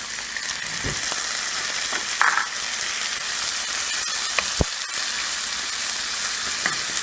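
Chopped tomato and onion frying in hot oil in a pan, a steady sizzle. A spatula stirs the pan, knocking against it a couple of times.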